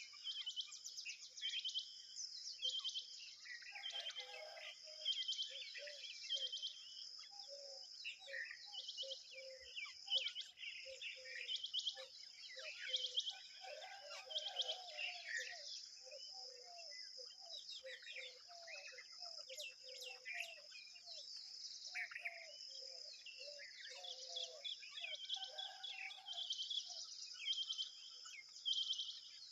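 Birds chirping over and over in short, sharp notes over a steady high-pitched insect buzz, with a run of lower calls in the middle.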